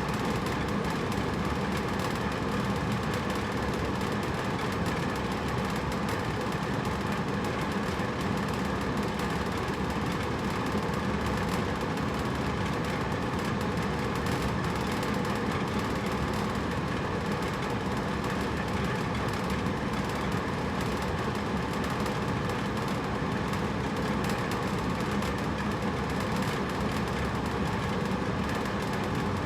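Hotel-room air conditioner running steadily: an even whooshing hum of fan and motor with a faint steady drone underneath and no changes.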